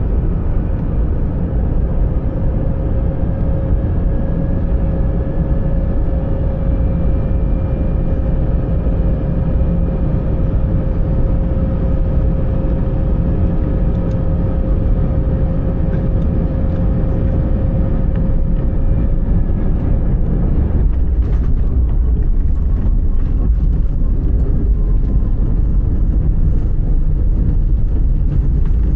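Airliner cabin noise: a steady low roar of jet engines and airflow with a steady whine. About two-thirds of the way through, the whine fades and the roar grows slightly louder, with scattered knocks and rattles.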